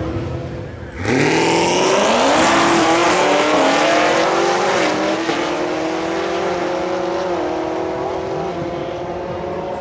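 Drag racing car launching hard about a second in and accelerating down the strip. The engine's pitch climbs, dipping briefly at each of three gear changes, and the sound slowly fades as the car pulls away.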